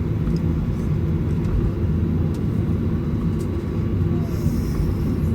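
Steady low rumble of a Boeing 737-900ER's cabin on the ground, heard from a window seat, with faint steady hums in it. A brief high hiss comes in about four seconds in.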